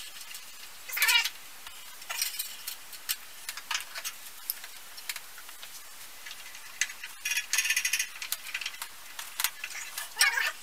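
Clicks, scrapes and short squeaks of a steel band saw blade being worked onto the wheels of a benchtop band saw by hand.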